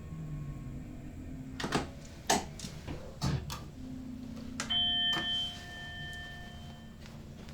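A few sharp clicks and knocks from cab controls, then a steady electronic warning tone made of several pitches that sounds for about two seconds from the train cab's equipment.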